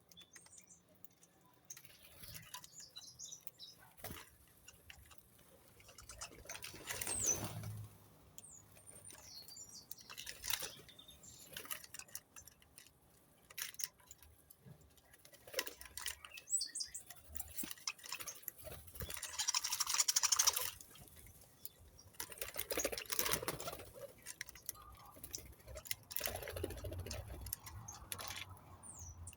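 Small birds chirping briefly now and then among many scattered clicks and taps, with a short rustling burst about twenty seconds in.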